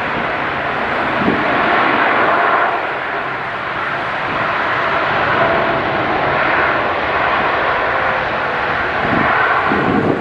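Boeing 787-9 airliner's turbofan engines heard during its landing: a steady jet rush with a faint tone that slowly falls in pitch as the aircraft moves past.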